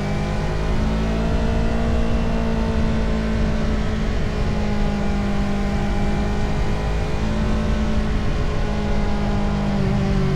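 Motorcycle engine running at road speed, its pitch rising and falling gently with the throttle, over a steady low wind rumble on the camera microphone.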